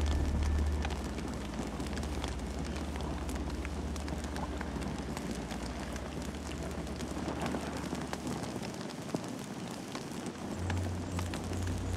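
Campfire burning: frequent small crackles and pops over a steady hiss of flames, with one louder pop about nine seconds in. A low rumble sits under it at the start and returns near the end.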